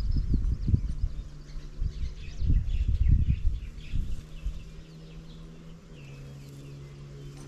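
Small birds chirping and twittering, with irregular low rumbling bumps in the first half. A steady low buzzing hum comes in about a second in and drops slightly in pitch near the end.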